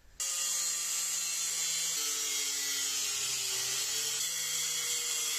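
Angle grinder running, starting abruptly and holding a steady high whine whose pitch shifts slightly as it is pressed against the exhaust pipe it is trying to cut.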